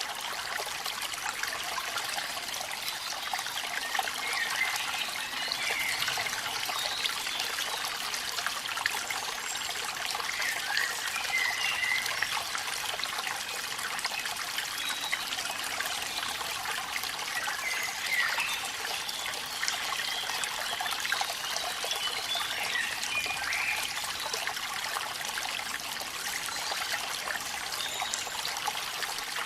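Water from a small waterfall trickling and splashing steadily.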